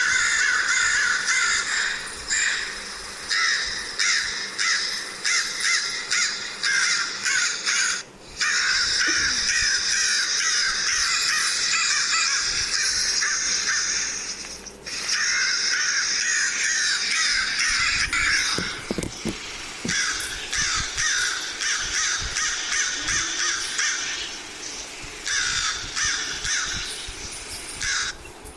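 A flock of crows cawing, many harsh calls overlapping almost without a break, with two brief lulls, one about eight seconds in and one about fifteen seconds in.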